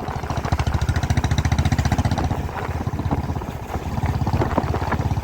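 Motorcycle engine running while riding, a fast steady chugging of firing pulses, with a few short knocks over it.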